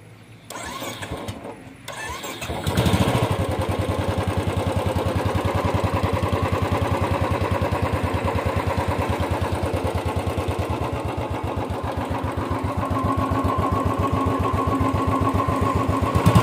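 Royal Enfield 350's single-cylinder engine cranked on its electric starter for about two seconds, then catching and settling into a steady idle with an even, regular beat from the exhaust.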